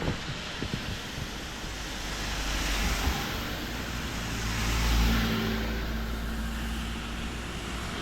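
A car driving past: tyre and engine noise swelling as it approaches, loudest about five seconds in, then fading.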